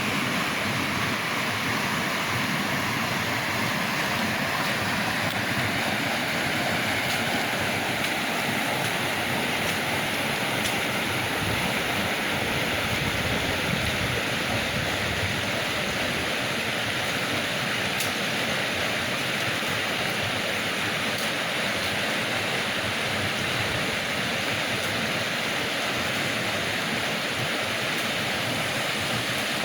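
River water rushing and splashing in a steady, even noise.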